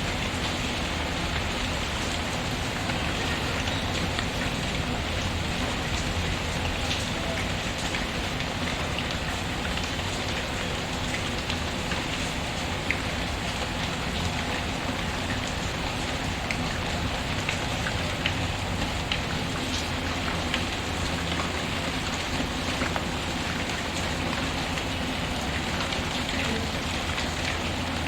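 Steady rain falling, with the occasional sharp crackle of a wood fire in a fireplace.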